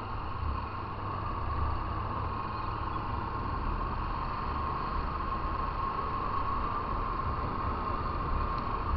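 Motorcycle riding along at steady speed: engine running under a heavy, gusting wind rumble on the microphone, with a steady faint whine.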